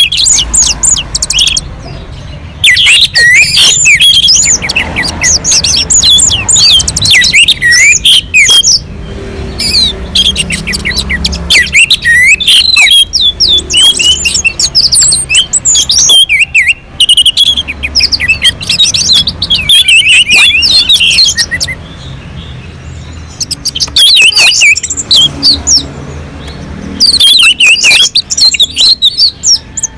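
Orange-headed thrush (anis merah) singing loudly: rapid runs of varied whistled and warbled phrases, broken every few seconds by short pauses.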